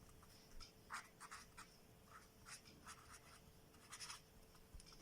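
Faint scratching of handwriting: short, separate writing strokes with brief gaps between them.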